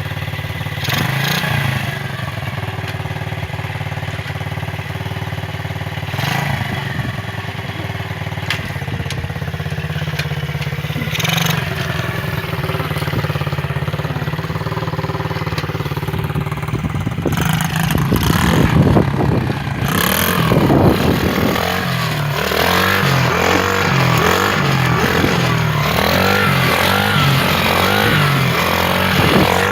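80cc dirt bike engine idling steadily, then, a little past halfway, revved up and run harder, its pitch rising and falling over and over.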